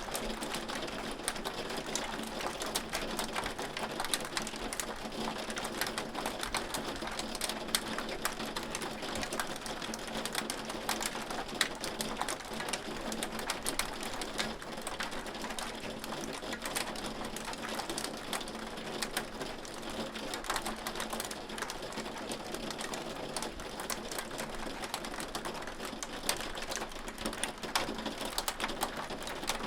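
Hail falling steadily: a dense, rapid ticking of many small impacts over an even hiss.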